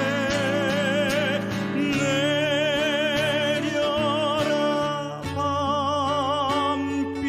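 A male singer holding long notes with wide vibrato over a steady instrumental accompaniment, a Korean trot ballad sung in an operatic style.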